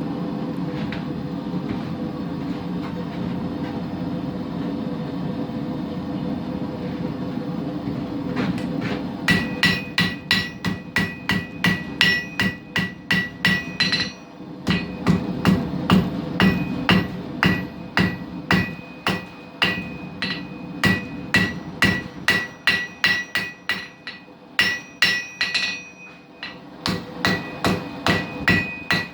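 A forge running with a steady rush for about nine seconds. Then a hammer strikes hot knife steel on an anvil, about two to three blows a second, each with a ringing note, with a short pause a little past the middle.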